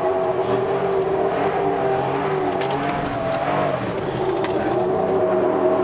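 Ford Raptor pickup's engine running under throttle, heard from inside the cab. The engine pitch wavers and dips briefly past the middle, then holds steady.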